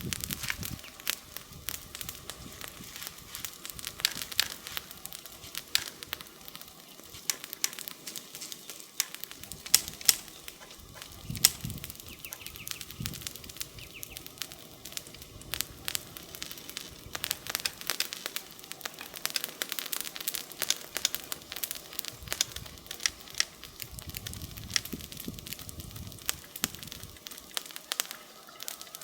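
Wood fire burning with frequent crackles and sharp snaps over a soft steady hiss, a few louder pops a third of the way in.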